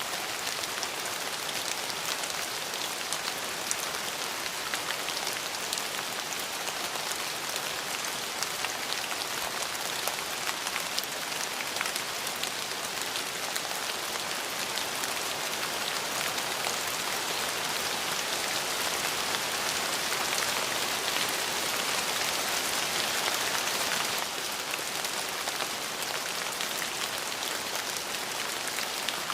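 Steady rainfall pattering on a surface, an even hiss of countless drops with fine individual drop ticks, swelling slightly and easing back near the end.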